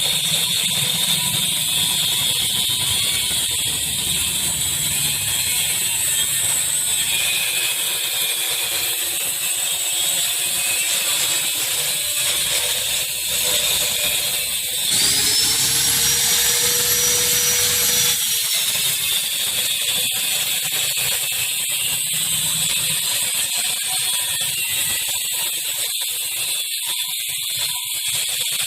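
Plastic shredder machine running, chopping hard plastic such as buckets and bottles into small granules, with a dense, steady mechanical noise. About halfway through a whine rises and holds for about three seconds.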